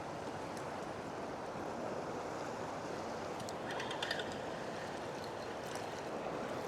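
Steady rushing of water from a dam's generator outflow, with a brief higher chirp about four seconds in.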